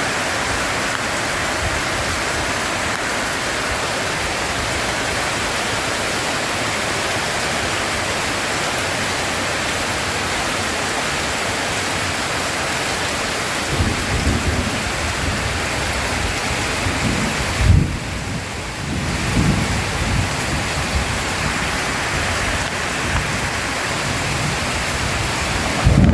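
Heavy rain falling steadily in a thunderstorm. Low thunder rumbles start about halfway through, with one louder clap about two-thirds of the way in and further rumbling near the end.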